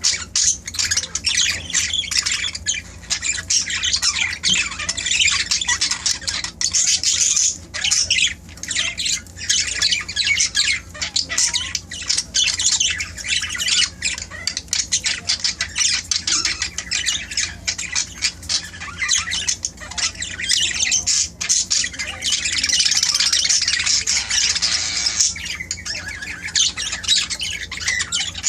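Budgerigars chattering and squawking, a dense continuous stream of rapid high-pitched chirps and warbles from several birds at once.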